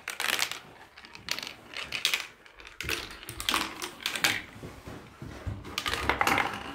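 A marble clicking and rattling irregularly as it rolls and drops along a homemade marble run, with a low rumble of rolling in the middle.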